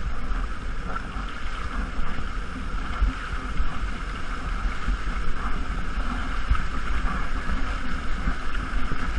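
Waterfall and fast stream water rushing steadily, with irregular low rumbling thumps of water and wind buffeting the microphone.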